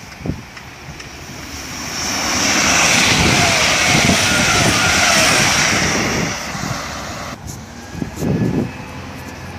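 A train passing through at speed: a rush of noise that builds over a couple of seconds, holds, then fades, with a faint falling whine as it goes by.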